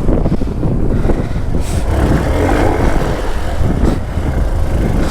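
Hero Xpulse 200 4V motorcycle being ridden, its single-cylinder engine running steadily.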